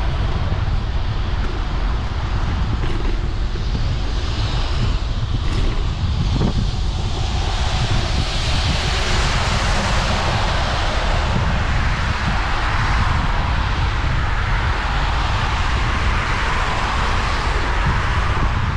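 Bicycle ride in rain: wind buffeting the microphone as a steady low rumble, over a continuous hiss of tyres on wet pavement and rain. The hiss grows louder about eight seconds in.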